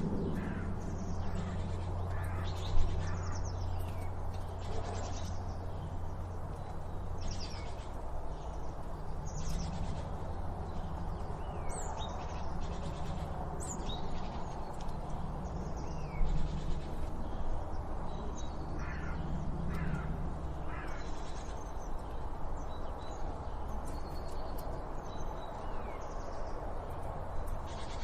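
Several birds calling and chirping, a mix of short high chirps and whistled notes, over a steady low hum of background noise. A brief knock sounds about three seconds in.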